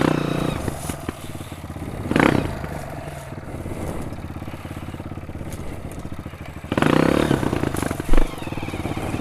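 Honda CRF trail bike's single-cylinder four-stroke engine pulling through a rough muddy section, blipped up in bursts of throttle near the start, about two seconds in and again near the end. A short thud a little after eight seconds.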